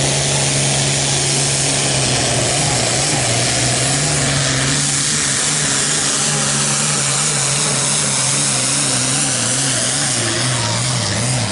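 Turbocharged diesel pulling tractor running hard: a loud, steady engine drone with a strong hiss over it. The engine note sags slightly near the end and cuts back right at the close.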